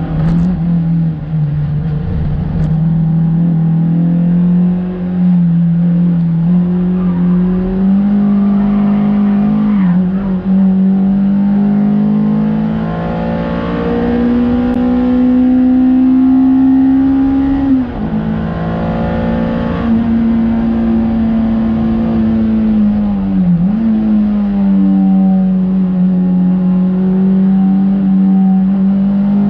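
Honda Civic EP3 race car's four-cylinder engine held at high revs under load. The pitch climbs slowly through a long pull and drops sharply about eighteen seconds in, with brief dips in revs near ten and twenty-three seconds.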